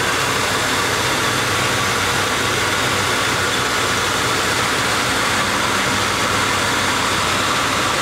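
1995 Lincoln Town Car's 4.6-litre V8 running steadily, heard up close at the front of the engine with the cooling fan and serpentine belt spinning on a freshly replaced belt tensioner.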